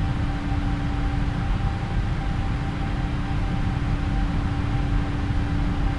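Boeing 777-300ER with its GE90 engines climbing out after take-off: steady engine and airflow noise, heaviest at the low end, with a steady hum under it.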